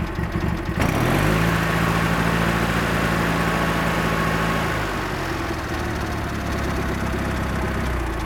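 Craftsman GT6000 garden tractor engine speeding up from idle about a second in, with a sudden whirring hiss added. It holds at high speed for about four seconds, then eases down slightly while the whir carries on.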